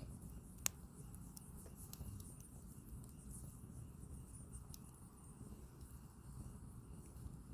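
Firewood burning in a small campfire: a low, steady rush of flame with scattered sharp crackles and pops from the wood, the loudest pop less than a second in.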